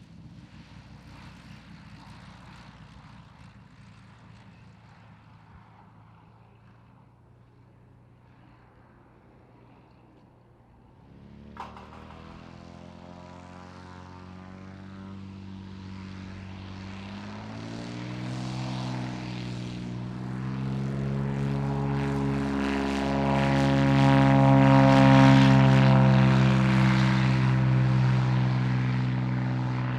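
A light propeller aircraft's piston engine runs low and steady, then is throttled up about a third of the way in, rising in pitch. It grows steadily louder, is loudest a few seconds before the end, then slowly fades.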